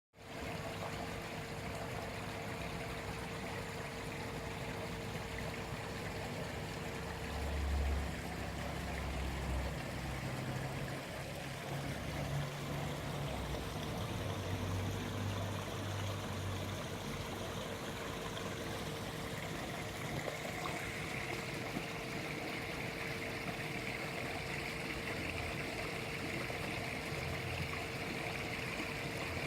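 Small garden pond waterfall: water steadily splashing and trickling down into the pond.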